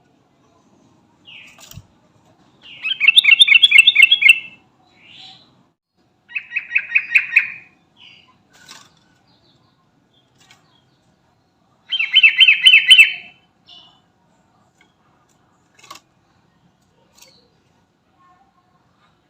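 Yellow-vented bulbul (trucukan) in full song, calling: three loud bursts of rapid repeated notes, each a second or two long, with a few short calls between them.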